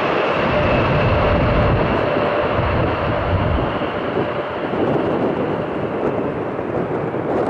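Jet aircraft engines passing close by: a loud, steady rumble with a faint whine that slowly sinks in pitch, easing off over the last few seconds.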